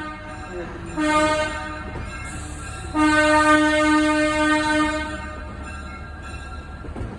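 Locomotive air horn: a short blast about a second in, then a longer blast of about two seconds, one steady chord-less tone, over a low engine rumble.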